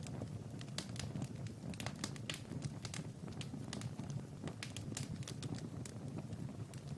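Fireplace fire crackling: irregular snaps and pops over a steady low rumble of the flames.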